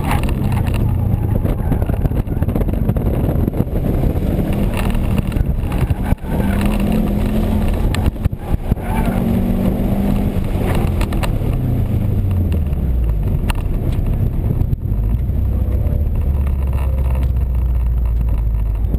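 Subaru WRX's turbocharged flat-four engine heard from inside the cabin on an autocross run, revving up and down between corners over tyre and road noise. About twelve seconds in the engine note falls, and it settles to a low steady drone for the last few seconds as the car slows.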